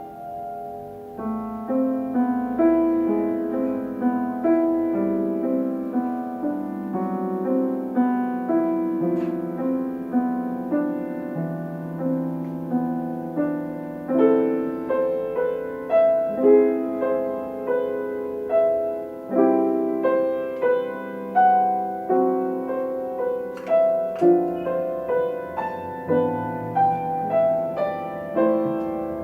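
Solo piano playing a slow, gentle piece: separate notes and chords struck one after another and left to ring out.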